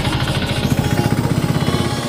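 A vehicle engine running close by, with a rapid, even pulsing.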